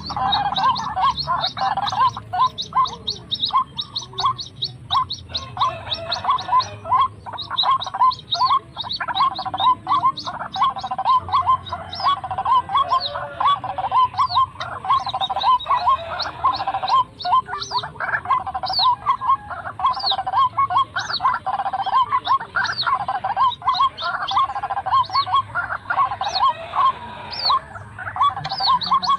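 White-breasted waterhen (ruak-ruak) calling: a fast, unbroken run of short repeated notes that keeps going with hardly a pause.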